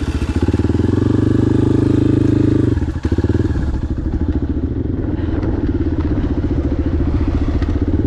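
Adventure motorcycle engine under way through mud. It pulls harder for about two seconds, eases off for a moment about three seconds in, then runs on steadily at part throttle.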